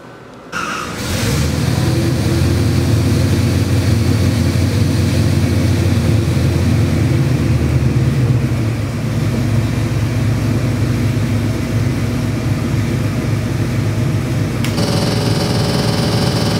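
Chevy 383 stroker small-block V8 with multi-port fuel injection, running on an engine dyno: it starts about half a second in and settles into a steady idle at about 860 rpm. Near the end the sound changes abruptly to a brighter tone.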